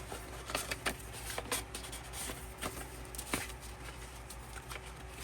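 Paper and card rustling with scattered light clicks and taps as a small paper envelope and album inserts are handled.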